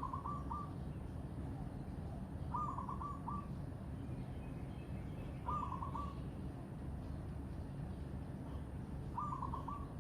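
A bird calling a short phrase of quick notes, repeated four times about every three seconds, with fainter chirps from other birds and a steady low rumble underneath.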